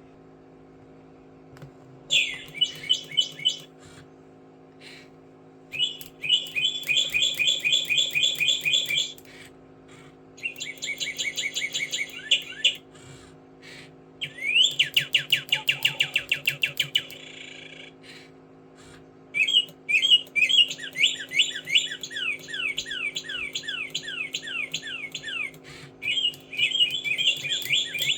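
Bird song: rapid whistled trills and chirps in bursts of one to three seconds, separated by short pauses, over a steady low hum.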